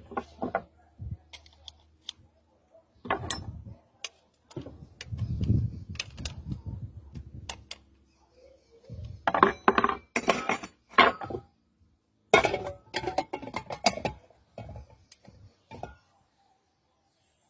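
Metal pressure cooker parts being handled: a string of clinks and knocks, with denser bursts of rattling clatter about halfway through.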